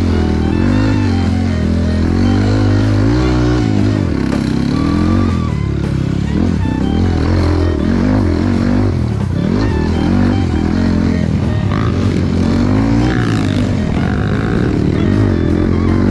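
Trail motorcycle engine running under varying throttle, its pitch rising and falling continually as the rider works over the trail.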